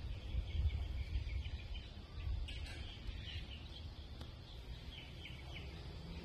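Small birds chirping in short scattered calls, busiest a couple of seconds in and again near the end, over a low steady outdoor rumble.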